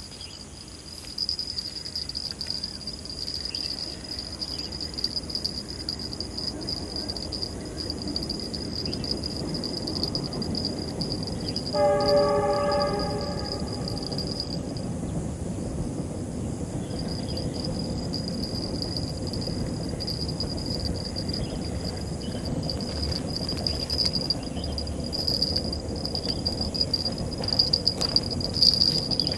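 A train rumbling past, sounding one horn blast of about a second and a half about twelve seconds in, over a steady high drone of insects.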